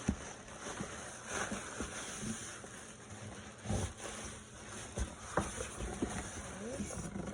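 Cardboard box being handled and opened: rustling and scraping of cardboard with a few knocks and thumps.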